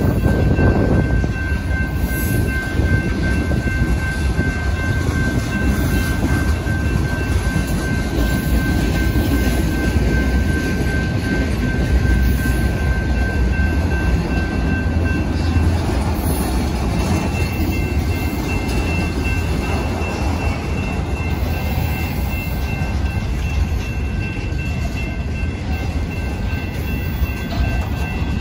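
Freight train rolling past at close range: a steady, heavy rumble of loaded freight cars on the rails, with a few clanks along the way and faint steady high tones above it.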